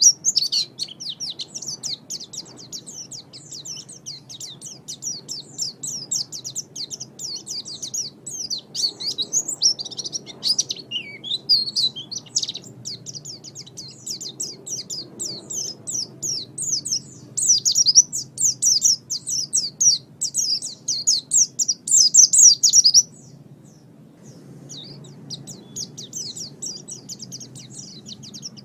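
Pleci (white-eye) singing a fast, unbroken, high-pitched twittering song. It is loudest shortly before a brief pause about two-thirds of the way in, then resumes.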